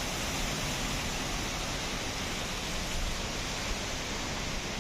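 Strong wind blowing steadily, with a low rumble of wind on the microphone.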